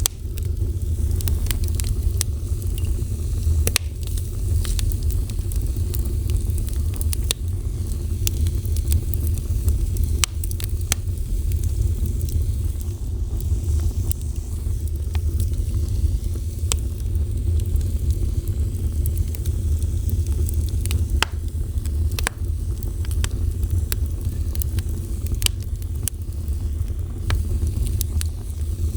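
Wood fire burning, with a steady low rumble and irregular sharp crackles and pops scattered throughout.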